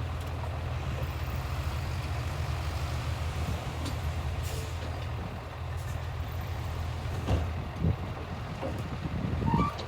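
Heavy diesel earthmoving machinery running steadily with a low engine drone, with a few sharp knocks in the last three seconds.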